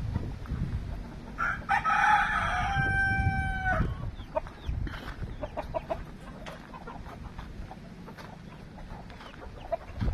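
A rooster crows once, starting about a second and a half in and ending on a long held note, and chickens cluck softly afterwards. A low rumble of wind on the microphone runs underneath.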